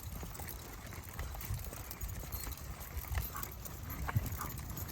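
Footsteps of a walker and a pack of dogs on a trail, with irregular thumps and scattered clicks over a low rumble.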